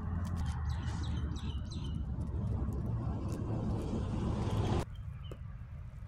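A few short bird chirps about a second in, over a steady low outdoor rumble that drops away abruptly near the end.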